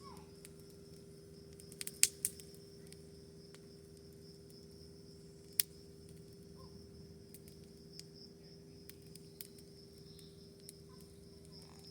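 Steady high insect buzz, cricket-like, over a low steady hum. A few sharp campfire crackles cut through it: two loud pops close together about two seconds in, another a little before the middle, and fainter ticks later.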